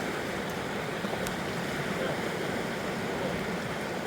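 Fast-flowing river rushing steadily, a constant, even roar of water, with a faint click about a second in.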